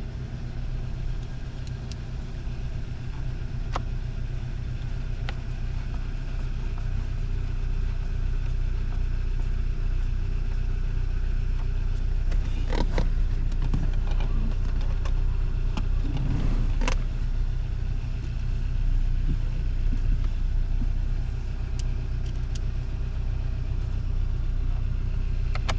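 Hyundai Sonata engine idling steadily, with a few scattered light clicks and two sharper ones partway through. There is no steering knock: the steering assist coupling has just been replaced.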